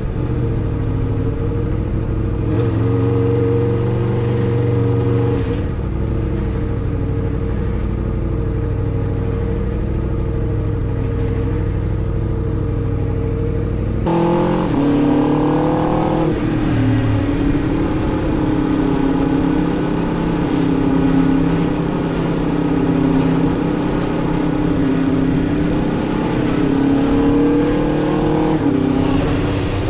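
Aprilia RSV4 RR's V4 engine, stock exhaust, running steadily under way. About halfway through the sound changes suddenly and the pitch climbs for a couple of seconds as the bike accelerates. It then settles into steady running, its pitch rising and falling a little.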